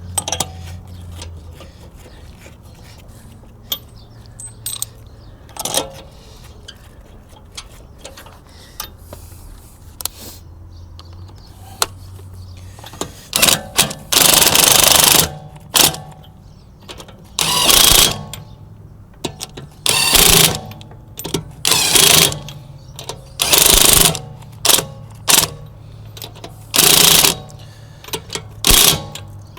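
Impact wrench driving wheel bolts in repeated short bursts, each about half a second to a second and a half long, about a dozen in the second half. Before them come scattered small clicks of hand work and a low steady hum that fades out about 12 seconds in.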